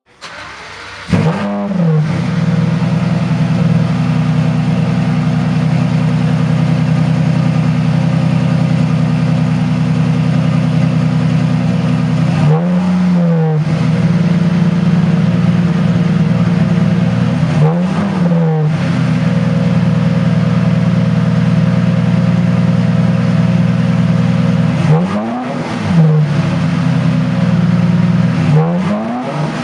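2006 Lamborghini Murcielago's 6.2-litre V12 with a custom exhaust starting up, catching about a second in, then idling steadily. It is blipped four times, each a quick rise and fall in pitch.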